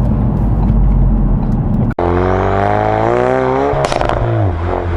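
Ford Focus RS Mk3 2.3-litre turbocharged four-cylinder engine and exhaust, heard from a microphone on the back of the car: a low drone, then after a break about two seconds in, the revs climb steadily under acceleration. Near four seconds a short crackle comes as the revs fall away.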